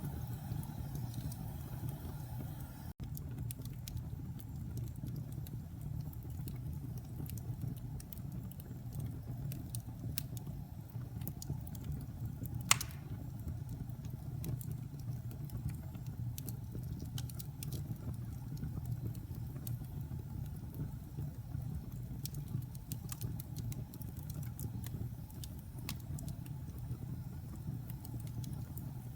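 Fireplace fire burning, with a steady low rumble under scattered small crackles and one sharp, loud pop about halfway through.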